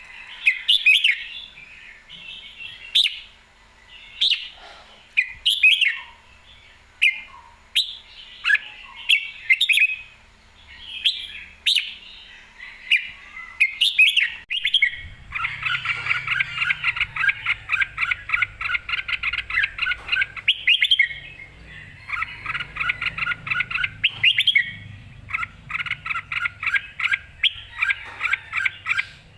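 Red-whiskered bulbul singing: short, bright whistled phrases at first, then from about halfway fast runs of rapidly repeated notes, three times with brief breaks.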